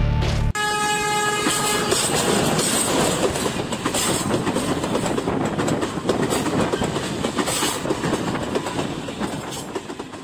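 Diesel-hauled passenger train passing at speed. The locomotive's horn sounds for about a second near the start, then the train runs by with a loud, steady rush of wheels on the rails that fades near the end.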